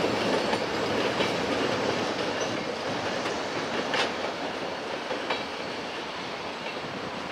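Freight train rolling slowly away over the rails, its steel wheels clicking over rail joints with a few sharp clacks, the rumble slowly fading.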